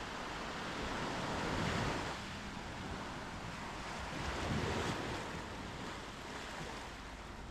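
Small sea waves breaking and washing up a sandy beach, two waves swelling and falling away about three seconds apart, with light wind on the microphone.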